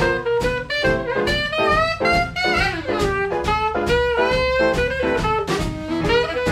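Swing jazz by a small band: an instrumental passage with saxophone and brass melody lines over a steady beat, with no vocals.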